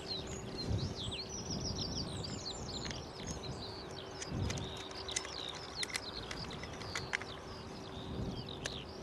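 Several small birds chirping and trilling in quick runs of high notes, over low wind rumble on the microphone and a faint steady hum.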